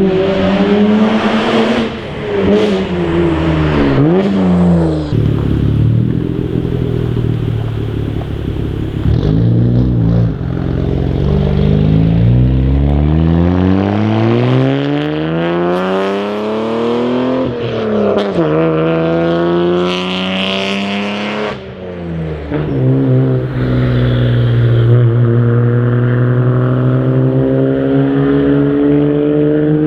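Toyota JZX90 Mark II's twin-turbo 1JZ-GTE straight-six exhaust under acceleration. The engine note climbs and drops sharply several times as it shifts up through the gears, with one long pull in the middle. It then settles into a steadier drone that slowly rises near the end.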